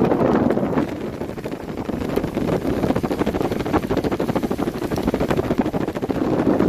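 Storm wind blowing hard against the microphone: a loud, dense, buffeting rumble that eases a little about a second in and again around five seconds.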